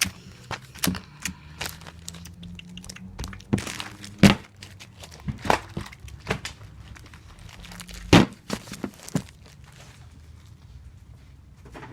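Tape pulled off a dispenser and torn, with crinkling and sharp thunks as comic books are handled and taped. The two loudest knocks come about four and eight seconds in.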